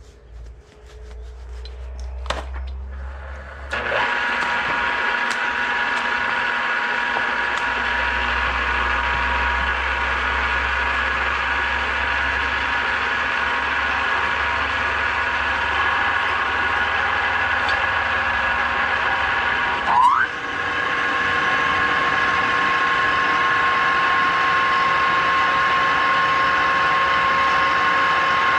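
Electric drill motor running steadily while drilling holes in a steel adapter plate; it starts about four seconds in, and about twenty seconds in there is a brief jolt and its pitch settles slightly higher.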